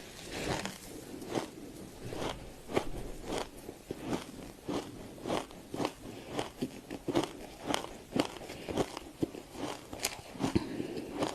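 Freezer frost being bitten and chewed, giving crisp crunches at about two a second.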